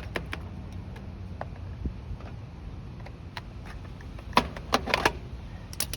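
Scattered sharp clicks and clinks of hand tools and metal parts being handled during generator repair work, with a cluster of louder clanks about four to five seconds in, over a low steady rumble.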